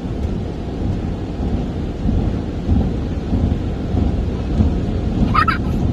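Automatic car wash air dryer blowers blasting the car, heard from inside the cabin as a deep, steady rumble of rushing air that slowly grows louder. A brief high squeak comes near the end.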